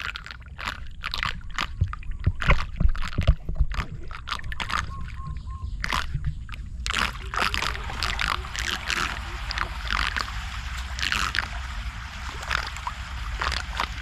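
Floodwater splashing and sloshing in many quick, irregular strokes over a steady low rumble, loudest a few seconds in.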